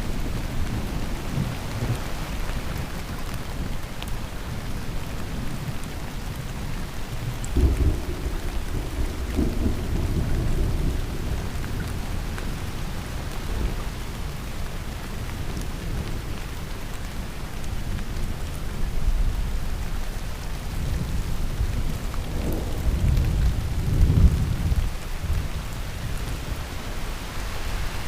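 Heavy rain falling steadily as an even hiss, with thunder rolling in low twice, about a quarter of the way in and again past the three-quarter mark.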